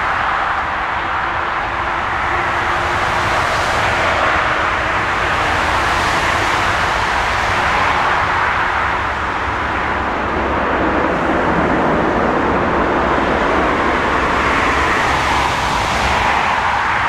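Jet airliner engines, a loud steady rush of noise that swells and eases slowly every few seconds.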